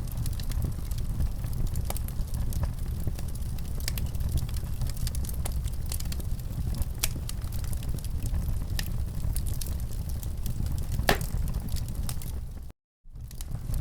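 Wood fire in a fireplace crackling, with scattered sharp pops over a steady low rumble. The sound cuts out completely for a moment near the end.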